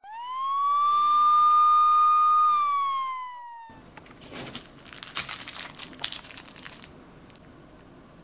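A single siren wail: one tone that sweeps up, holds for about two seconds, then slides down and cuts off abruptly. It is followed by a few seconds of paper rustling and crinkling.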